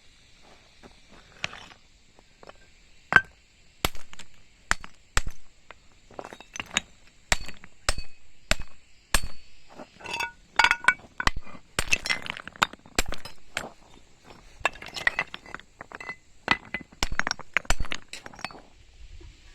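An irregular run of sharp clinks and knocks from hard objects striking one another, a few a second and thickest in the middle, some ringing briefly.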